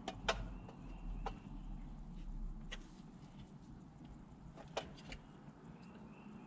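A few light, sharp clicks and taps of radio-mount parts being handled and fitted into the dash, spread out irregularly over a low steady hum.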